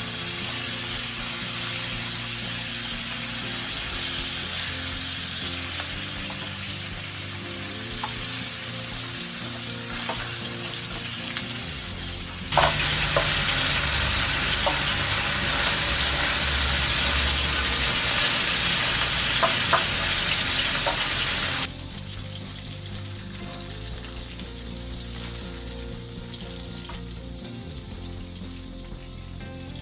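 Salted hairtail fish pan-frying in cooking oil, sizzling steadily. The sizzle turns louder for several seconds in the middle, with a few sharp clicks, then drops back quieter.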